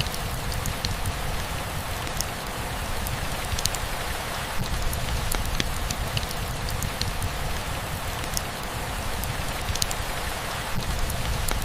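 Steady rainfall, with many scattered drips and drops ticking on a surface over a continuous hiss of rain and a low rumble.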